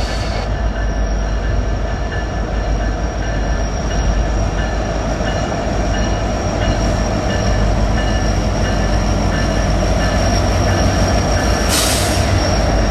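Train rolling past with a steady, loud rumble of wheels on rail and a thin, steady high-pitched squeal over it. A brief hiss comes near the end.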